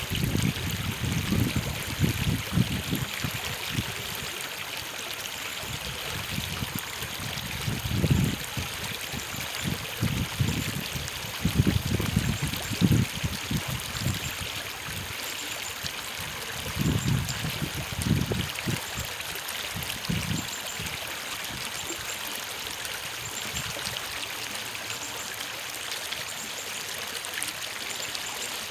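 Steady rushing and trickling of a flowing stream, used as a sleep sound. Low rumbles come and go several times over it in the first two-thirds, then stop.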